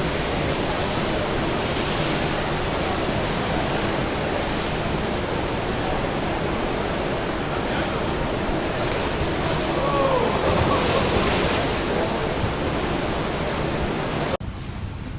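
Loud, steady rush of wind and sea at a ship at sea, a dense roar with no clear rhythm. It drops off abruptly near the end, where a quieter stretch of sea and wind noise follows.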